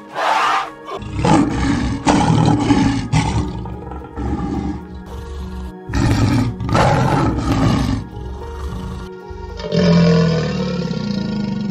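Animal calls one after another over background music: an elephant calling, then a tiger roaring from about six seconds in, then a crocodile's low pitched call near the end.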